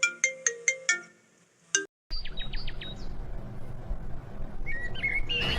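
A phone ringtone melody of quick chiming notes that cuts off about two seconds in. Steady background noise with a few short high chirps follows.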